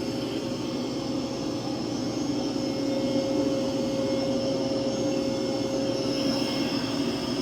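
Mova V50 robot vacuum running on carpet at maximum suction: a steady whirring hum with a high whine, getting a little louder over the first three seconds.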